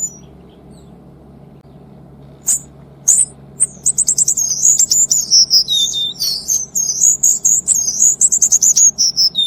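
Cuban bullfinch singing a long, rapid run of short high notes packed tightly together, starting a little past halfway in after two sharp clicks. A steady low hum runs underneath.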